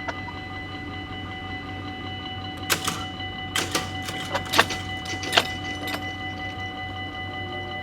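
Dutch level-crossing warning bell ringing steadily. Between about three and six seconds in, a run of sharp irregular clacks sounds over it.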